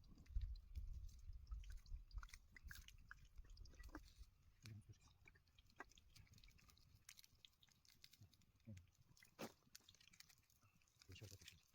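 Faint, scattered crunching and crackling clicks, with a low rumble during the first second or so.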